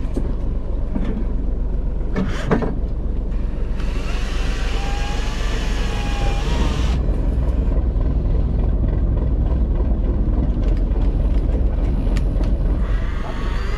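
Fishing boat's engine running with a steady low rumble. About four seconds in, a hiss rises over it for roughly three seconds.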